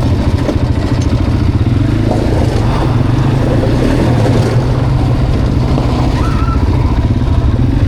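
Quad bike (ATV) engine running steadily, a continuous rapid low rumble.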